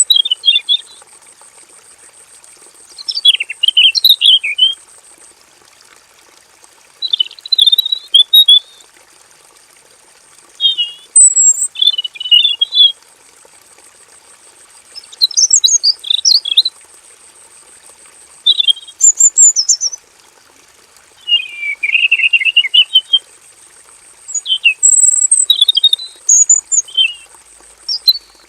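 Male red-billed leiothrix (Pekin robin) singing: about eight loud phrases of rapid warbling notes, each a second or two long, separated by short pauses.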